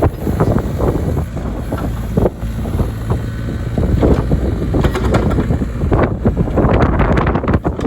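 Hitachi ZX33U-5A mini excavator's diesel engine running steadily, with wind buffeting the microphone.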